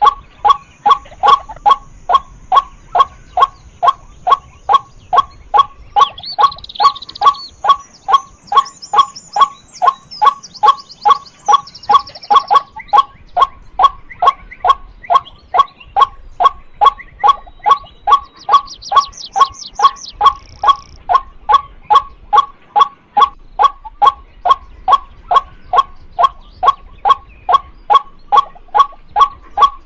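Female white-breasted waterhen calling a single loud 'kwak' note over and over, about twice a second at a steady rhythm. Other small birds chirp briefly in the background a few times.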